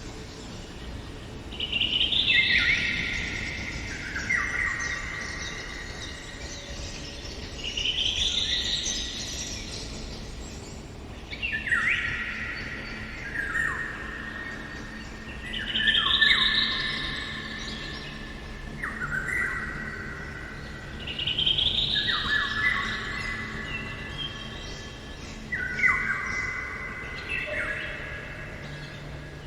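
A songbird singing repeated phrases that fall in a few quick steps from high to lower, one phrase about every four to five seconds.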